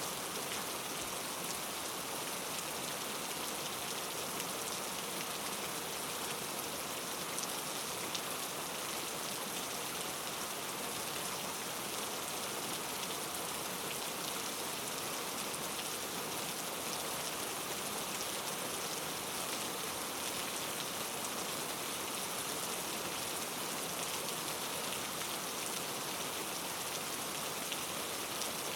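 Steady rain falling and pattering on a surface, an even hiss with fine scattered drop ticks that neither builds nor eases.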